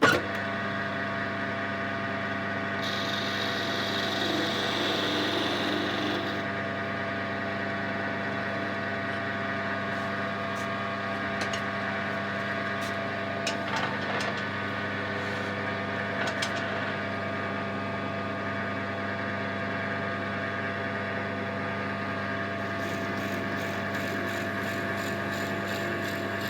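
Wood lathe running steadily while a hole is drilled into the end of an oak clock finial to take a new spigot, with a hiss of cutting about three to six seconds in and a few light clicks.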